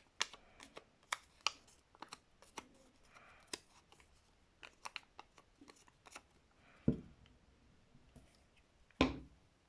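Paper and card handled on a tabletop: scattered light clicks, taps and rustles, with two louder thuds, about seven and nine seconds in, as pieces are pressed down.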